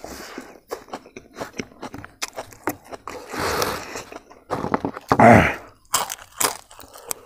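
A person chewing crunchy fried food with the mouth close to the microphone: repeated crisp crunches and wet chewing, with a louder, fuller mouth sound a little after five seconds in.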